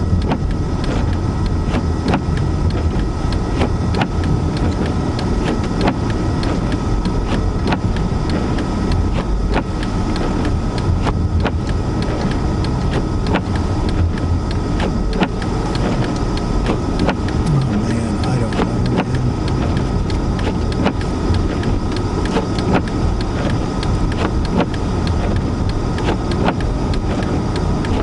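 Car driving through a blizzard, heard from inside: a steady low rumble of engine, tyres and wind, with frequent small irregular clicks and ticks over it.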